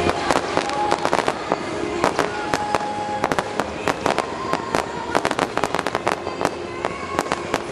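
Fireworks display: dense, irregular crackling pops, several a second, from bursting crackle stars.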